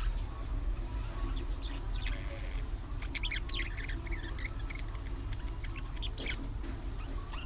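Budgerigars chirping and twittering in short, scattered bursts, with a busier flurry about three to four seconds in, over a steady low hum.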